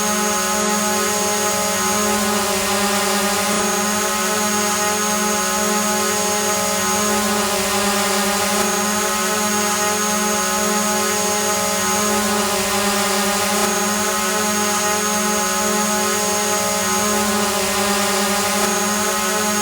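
A drone hovering in place: its propellers and motors make a steady, unchanging buzzing whine that holds one pitch over an airy hiss.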